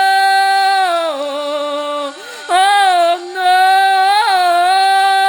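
A woman singing long held "oh" notes, a single voice with no accompaniment heard. The pitch bends down and back up, with two short breaks and a quick vocal flourish partway through.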